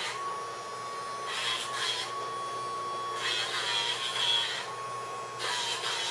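Battery-powered dog nail grinder running with a steady whine; three times its pitch dips and a gritty grinding noise rises as it is pressed against a puppy's nails.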